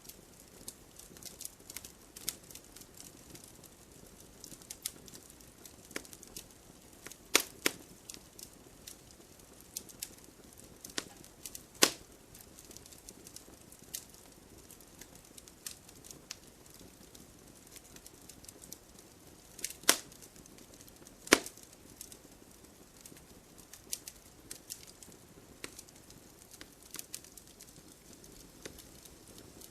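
Wood campfire crackling: a steady low hiss of burning wood with frequent small snaps and several loud sharp pops, two of them close together about seven seconds in.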